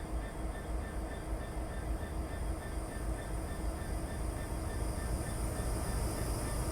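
Steady low rumble of a train running along the line, slowly growing louder. Faint repeating tones of background music fade out over the first few seconds.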